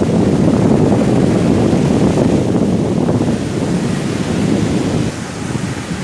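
Strong wind and sea waves on a beach, a steady deep rushing noise that eases a little near the end.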